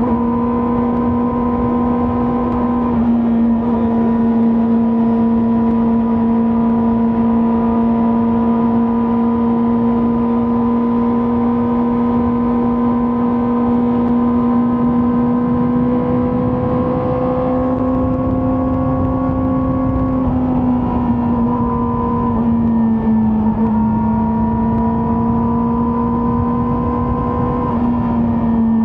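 Kawasaki ZX-4RR's inline-four engine and exhaust running at steady high cruising revs while riding, a smooth high-pitched note. The pitch dips slightly a few seconds in, creeps up, then drops again about two-thirds through as the throttle eases.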